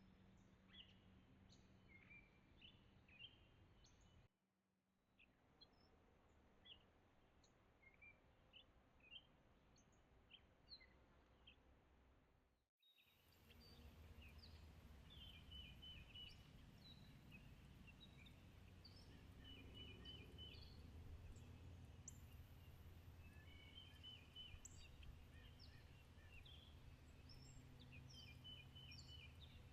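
Faint birdsong: many short chirps and calls from several birds over a low steady background rumble. The sound cuts off abruptly about four seconds in and again about thirteen seconds in; after the second break, short quick trills of a few notes repeat every few seconds.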